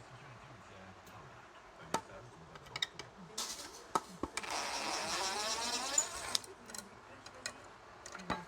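A few sharp knocks and clicks, then a power drill running for about three seconds, its pitch wavering, before more light clicks.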